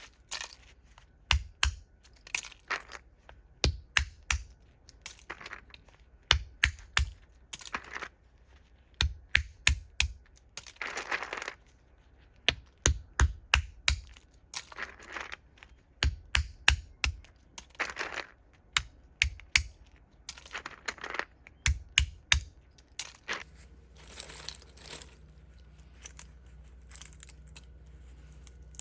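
Walnuts being cracked and handled: sharp cracks and clicks of hard shells come in quick clusters every second or two, with occasional longer crunching. A faint low hum comes in near the end.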